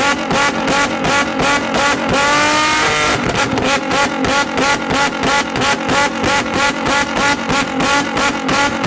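A car engine held on its rev limiter, the revs bouncing up and cutting out about four to five times a second. About two seconds in the throttle is briefly let off and the revs fall, then it goes back on the limiter. Revving like this is how the car is made to shoot flames from its exhaust.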